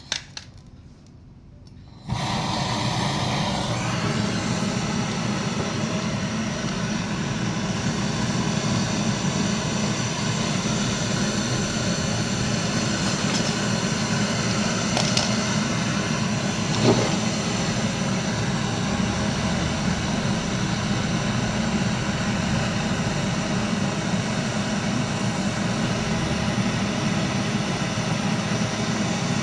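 An electric motor starts abruptly about two seconds in and then runs steadily with a loud low hum, after a few light clicks at the start; there is one brief click partway through.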